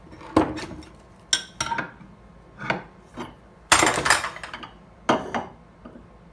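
Steel hand files scraping and clinking against a knife handle in irregular short strokes, with the sharp clatter of metal tools.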